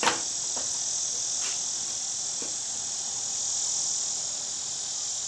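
Steady, high-pitched chirring of insects, with a few light clicks and taps; the sharpest click comes right at the start.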